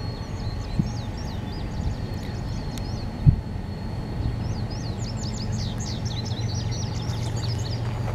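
Steady low diesel rumble of an approaching freight train, with songbirds chirping over it in two bursts. A single sharp knock about three seconds in.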